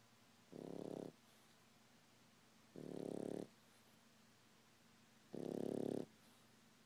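A French bulldog puppy snoring as it sleeps: three buzzing snores, each about half a second long, coming about every two and a half seconds in an even rhythm.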